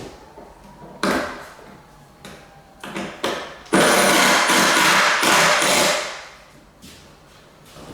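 Power drill driving screws into a wooden door jamb: two short runs, then a steady run of about two seconds.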